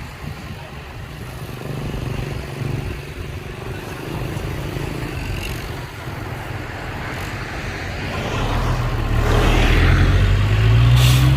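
Heavy diesel engine of earth-moving machinery running, growing louder about eight seconds in, with the engine note rising near the end.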